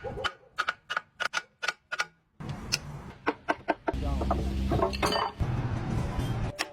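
Sharp metallic clicks and knocks of hand work on engine parts: a quick run of them in the first two seconds, then more spaced knocks over a low steady hum from about two and a half seconds in.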